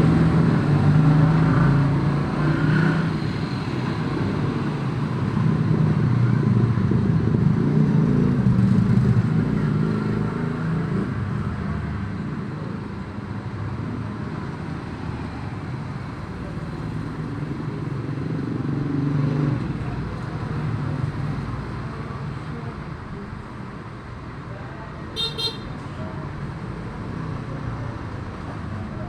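Motor vehicle engines running, swelling and fading, with a short high-pitched pulsed beeping about 25 seconds in.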